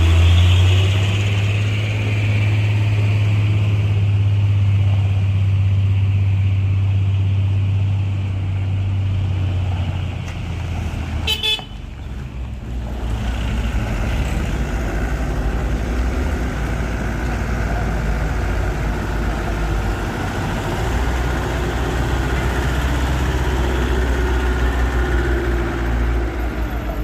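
Heavy diesel truck engine running under load with a deep, steady drone. About eleven seconds in there is a click, and the drone continues at a lower pitch.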